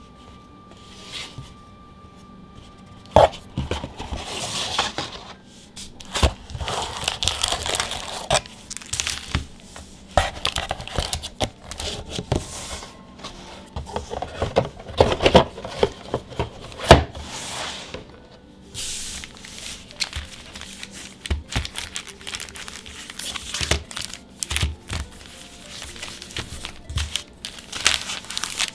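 Plastic booster pack wrappers being torn open and crinkled by hand, starting about three seconds in, with a few sharp clicks among the rustling.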